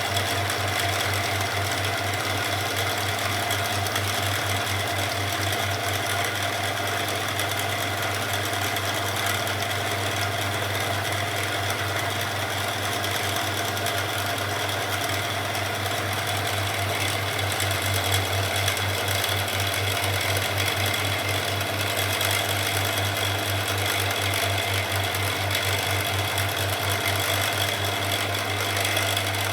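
A small machine running steadily with a rapid, even pulsing beat over a low hum, unchanged throughout.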